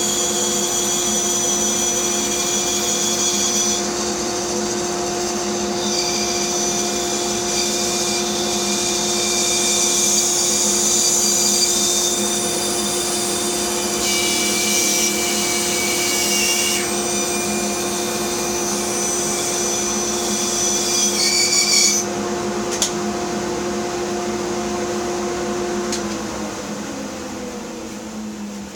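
Bandsaw running and cutting through a wood block, with a steady motor hum and a louder cutting hiss that comes and goes over several cuts. Near the end the saw is switched off and its hum falls in pitch as it coasts down.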